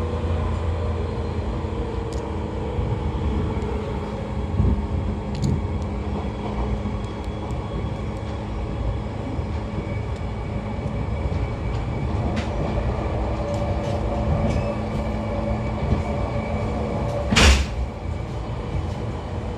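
JR 113 series 5700 subseries electric train running, heard from inside its motor car: the MT54 DC series-wound traction motors and 4.82-ratio gearing give a steady whine over rumbling wheel and track noise, with scattered small clicks and one sharp knock about seventeen seconds in.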